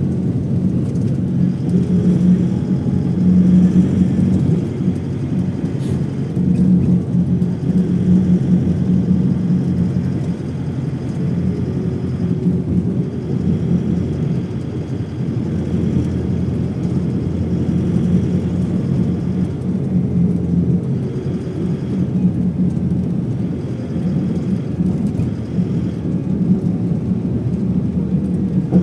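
Steady low rumble of a moving vehicle heard from inside it, swelling and easing slightly, with faint steady higher whines above it.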